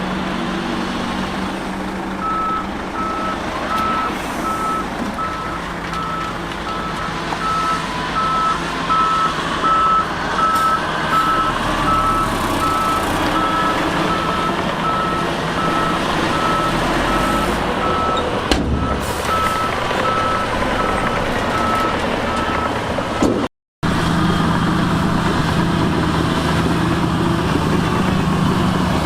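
Heavy-machine reversing alarm beeping in a steady repeated pattern over diesel engine noise, as a vehicle backs up at the earthworks. The beeping stops near the end, the sound cuts out for a moment, and a steady diesel drone follows.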